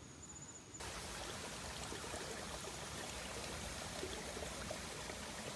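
A steady rushing noise, even across all pitches, that begins abruptly about a second in.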